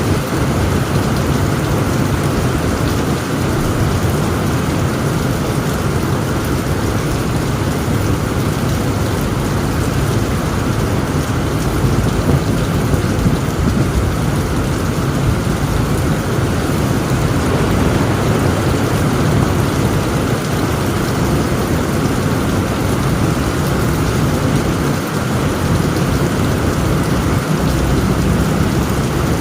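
Heavy rain falling on a tent roof, with a steady low rumble of thunder underneath.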